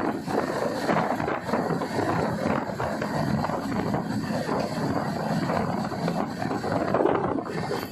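A train running past, with a steady rumble and an irregular clatter of wheels and coaches, and wind buffeting the microphone.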